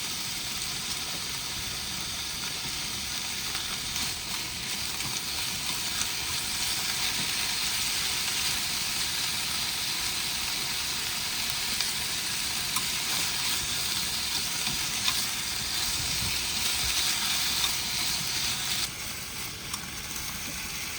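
Udon noodles sizzling as they fry in a pan, stirred now and then with faint clicks of a utensil. The sizzle drops suddenly near the end.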